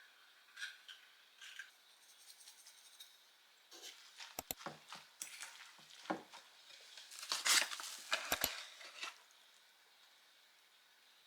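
Dishes and cutlery clinking and knocking: a few light clinks at first, then a busier run of knocks and clatter from about four seconds in, loudest a little past the middle.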